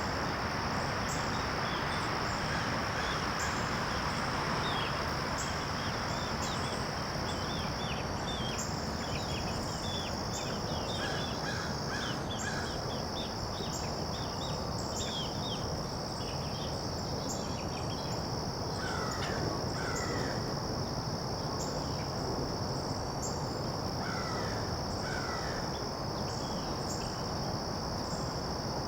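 Garden ambience: insects keep up a steady high drone, while birds chirp in quick runs and give a few paired calls the tagger hears as crow caws.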